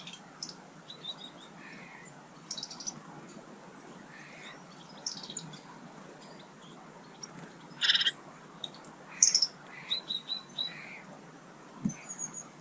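Small garden birds chirping and calling in short, scattered twitters. A louder burst of chirps comes about eight seconds in, and another about a second later.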